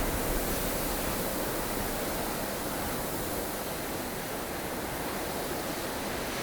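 Strong, blustery snowstorm wind rushing steadily, with a slightly stronger gust and low rumble near the start that then eases.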